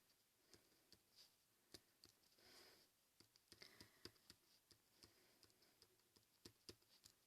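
Near silence broken by faint, irregular ticks and taps of a glitter pen tip dabbing dots onto paper, with a brief soft rustle of paper about two and a half seconds in.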